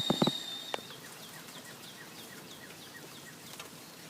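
A bird calling a series of short falling chirps, about two to three a second, over the faint hiss of rain. A few sharp clicks and a steady high tone come in the first second and stop.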